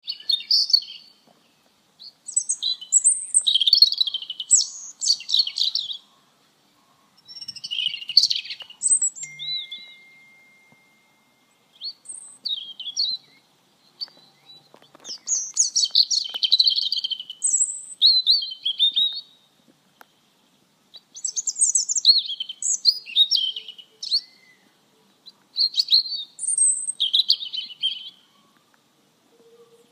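A songbird singing in bouts of rapid, high chirping phrases a few seconds long, separated by short silent gaps.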